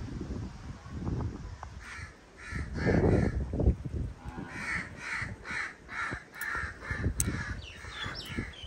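A bird giving a run of harsh, repeated calls, about two or three a second, starting about two seconds in with a short pause in the middle. Wind buffets the microphone throughout, in gusts that are loudest early in the call sequence.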